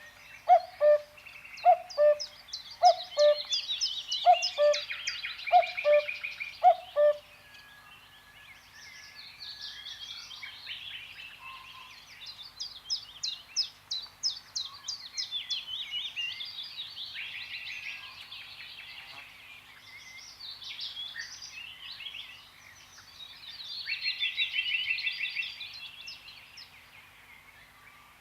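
Woodland birdsong: many songbirds chirping and trilling. For the first seven seconds a lower two-note call, high then slightly lower, repeats about once a second over the chorus.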